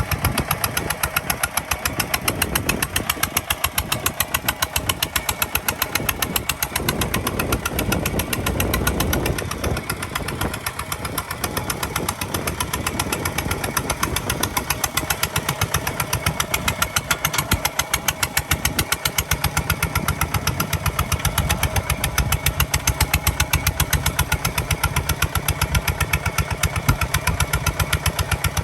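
Kubota ZT155 DI single-cylinder diesel engine of a walking tractor running with a steady, rapid firing beat, its sound shifting somewhat for a few seconds in the middle.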